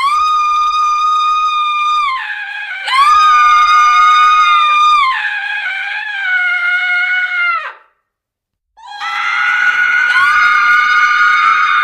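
Woman screaming in long, high-pitched, sustained shrieks, one after another, each sagging in pitch as it dies away. There is a brief silence about eight seconds in before another scream starts.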